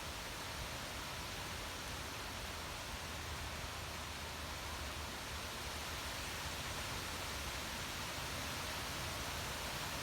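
Running water rushing steadily as an even, unbroken hiss.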